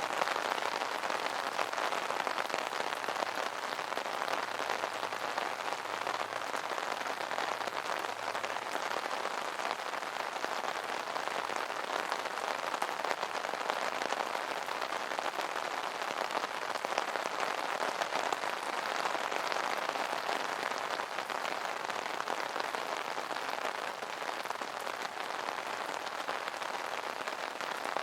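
Steady rain pattering on an umbrella's fabric canopy: a dense, even hiss of many small drop impacts.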